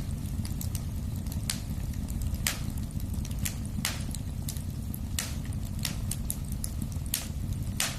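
Wood fire burning in a fireplace: a steady low rumble of the flames with irregular sharp crackles and pops from the burning logs, several a second.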